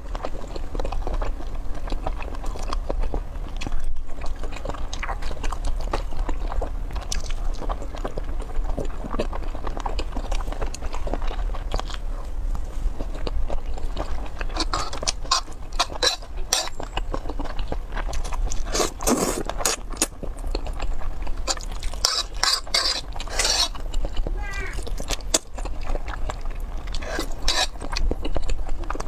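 Close-miked eating sounds: chewing a mouthful of sauced noodles, with many small wet mouth clicks and a few sharper clicks. A metal fork clinks on the metal tray.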